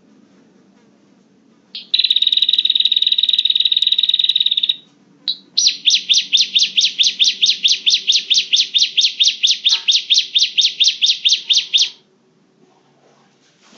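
Prinia (prenjak) calls played as a bird lure: a fast buzzing trill about two seconds in that lasts about three seconds, then, after a brief break, a rapid run of sharp repeated notes, about five a second, that stops abruptly near the end.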